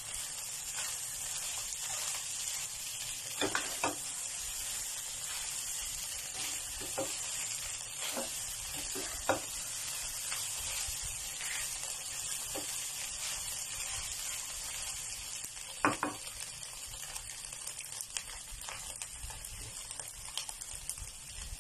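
Fried rice sizzling steadily in a hot pan while a spatula stirs and turns it over, with now and then a short knock or scrape of the spatula against the pan.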